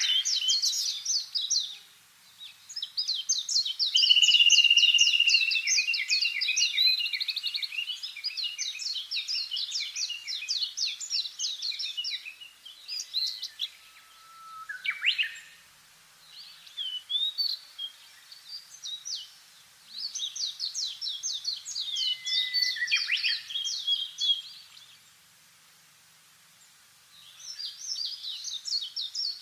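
Small songbirds singing: long runs of rapid, closely repeated high chirps and trills, several overlapping at times, broken by short pauses and a longer lull near the end.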